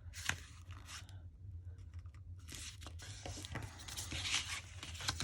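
Thick paper being handled and folded, rustling and crackling with a few sharp clicks, the noise thickening over the last couple of seconds.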